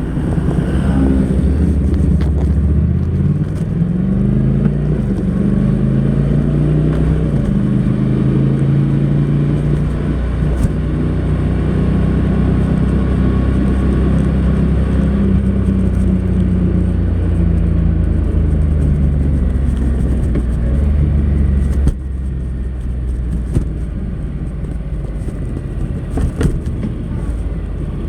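Honda NC700X's parallel-twin engine running through its stock exhaust while riding. Its note rises and steps up in pitch through the first few seconds, then holds a steady cruise. About 22 s in it drops sharply in level and pitch as the throttle closes.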